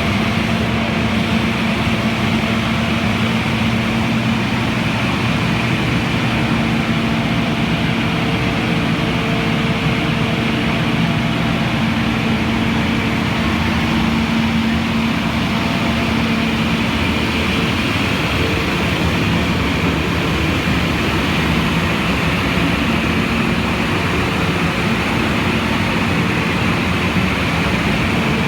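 Blower of a SIRCA blower-type cacao dryer running steadily: a loud, even rush of air over a constant machine hum.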